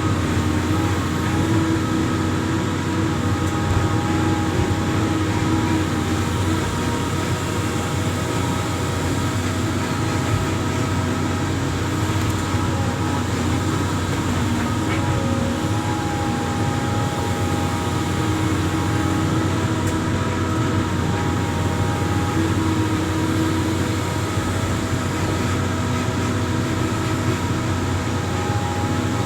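Amphibious excavator's diesel engine running steadily, with several steady whining tones over a constant low hum.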